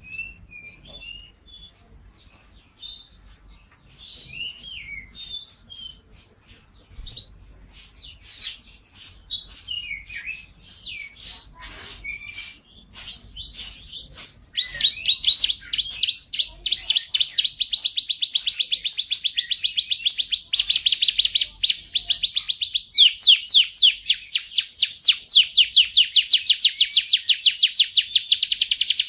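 An F1 canary singing: scattered short chirps and whistled notes at first, then from about halfway a loud, fast trill of rapidly repeated notes in long rolls, shifting pitch and speed from roll to roll.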